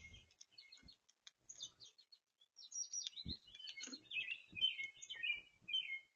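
Small songbirds chirping and twittering in quick, high notes. The sparse chirps of the first few seconds give way to a busier, louder run of twittering about halfway through, with a few faint low knocks among them.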